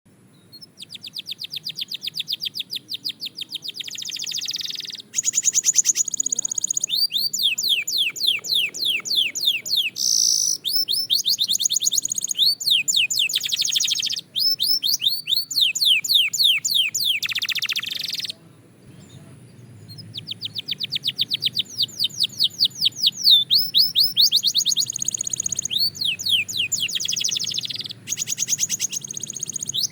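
Belgian canary singing in fast rolling trills: long phrases of rapidly repeated high notes, many sweeping downward, with a short pause a little past halfway.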